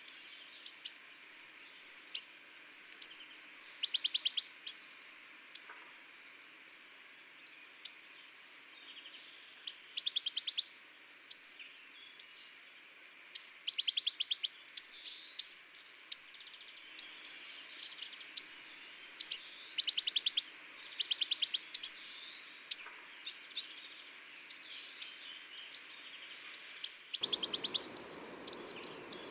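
Garden songbirds of the tit family and a nuthatch chirping and calling: many short high chirps and whistles, broken by several short rapid trills. A low steady hum comes in near the end.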